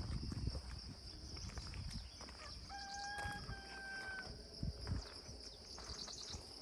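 Rural outdoor ambience: a steady high-pitched insect buzz, with soft footsteps on a path. About three seconds in, a clear, steady-pitched call is held for about a second and a half.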